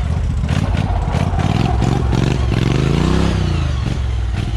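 Modified off-road lawn tractor engine running hard, revving up and back down about three seconds in, with some clattering.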